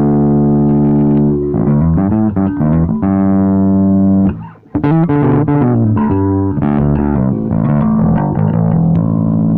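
Electric bass guitar played through a Vox StompLab 2B multi-effects pedal: a held note opens, then short melodic phrases, with a brief break about halfway through.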